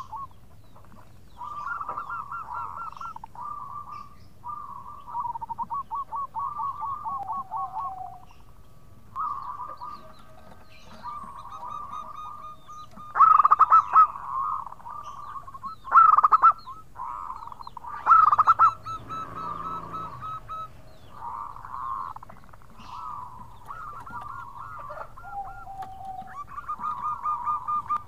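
Zebra dove (perkutut) cooing: phrase after phrase of rapid, rippling trilled coos, with three louder calls around the middle.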